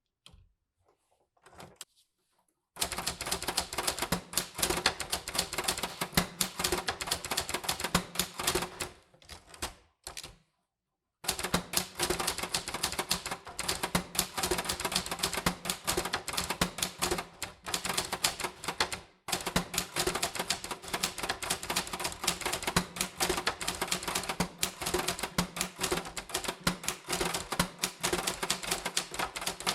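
Typewriter being typed on at speed: a dense run of key clacks starts about three seconds in, breaks off for about two seconds near the middle, then resumes.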